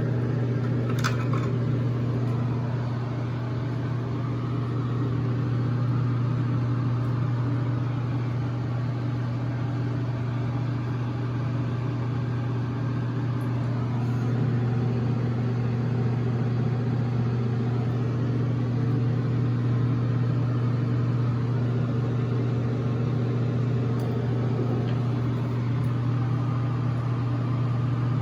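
A steady machine hum with a low drone that holds level throughout, and a short click about a second in.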